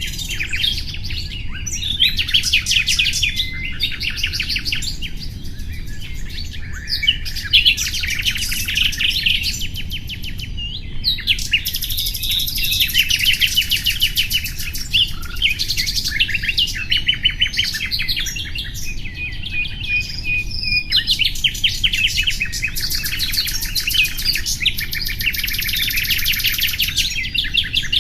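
Common nightingale singing in quick phrases of rapid trills and fast repeated notes, with a held whistle about two-thirds of the way through. A steady low background noise runs underneath.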